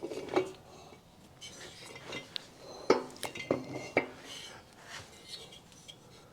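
Metal parts and tools being handled and set in place on a bench: a few separate clinks and knocks, some with a short metallic ring.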